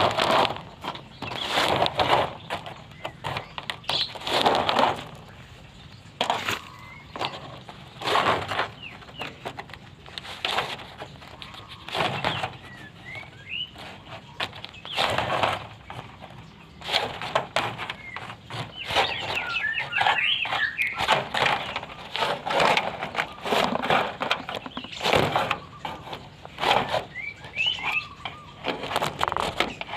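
White-rumped shama flapping its wings in repeated, irregular bursts as it flies loose, with a few short, high rising chirps in between.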